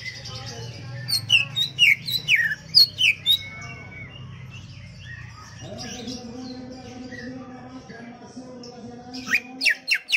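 Greater green leafbird (cucak ijo) singing loud, sharp, falling whistled notes in quick runs, the first about a second in and a faster run near the end. A steady low drone sits under the second half.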